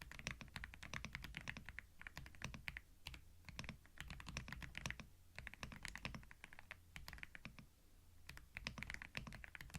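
Typing on a computer keyboard, recorded binaurally: quick runs of key clicks in bursts of a second or two, with brief pauses between them.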